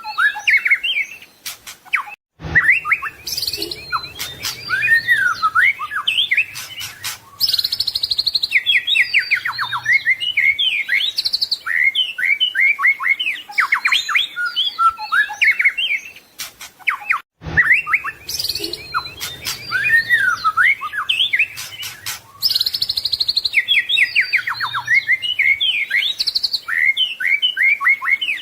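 White-rumped shama singing a rich, varied song of rapid whistles, trills and harsh notes. The song breaks off briefly about 2 s in and again about 17 s in, and the same song restarts each time, as a looped recording.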